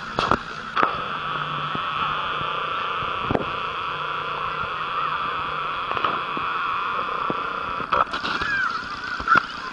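A steady, high buzzing hum, broken by a few sharp clicks and knocks.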